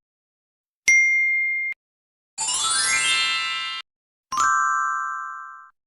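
Three separate electronic sound-effect tones with silences between them. First a click and a short steady high beep; then a rising sweep of stacked tones lasting about a second and a half; then a click and a lower tone that fades out over about a second and a half.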